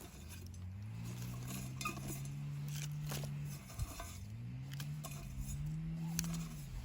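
Small engine of a grass cutter running, its speed rising, holding, dropping briefly about four seconds in, then rising again and easing off near the end. A few light metallic clinks sound over it.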